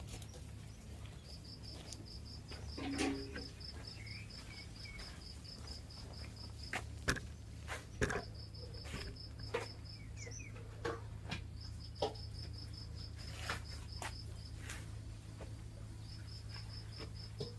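A cricket chirping in trains of rapid, even, high pulses a few seconds long with short pauses between, while light knocks and clicks of kitchen work come and go.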